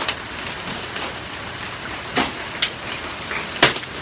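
Hail storm: a steady hiss of falling hail, with sharp cracks of individual hailstones striking close by, about five of them, the loudest near the end.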